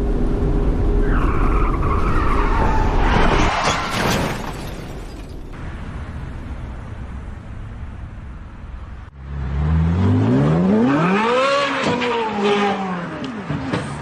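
A car driven hard, with loud engine and tyre noise for the first few seconds. About nine seconds in, after a sudden break, a car engine revs up and falls back down again.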